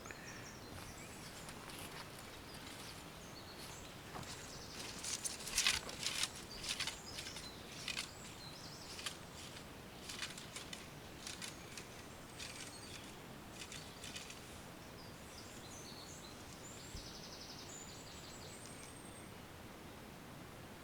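Outdoor ambience with a run of rustles and sharp snaps in the middle, and faint high bird calls, including a short buzzy trill near the end.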